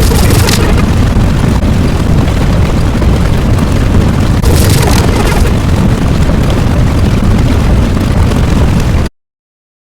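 Loud, continuous rumbling roar of a sound effect, heavy in the bass, with brighter hissing surges at the start and about halfway through. It cuts off abruptly to silence near the end.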